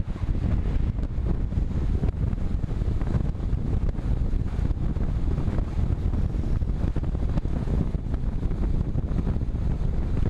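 Wind buffeting the microphone of a camera on a moving road bike: a steady, loud, low rumble.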